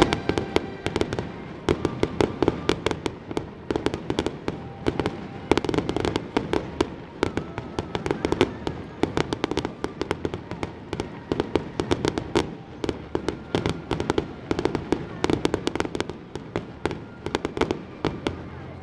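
Aerial fireworks bursting in a rapid, irregular string of bangs and crackles, several a second, over a crackling hiss of sparks.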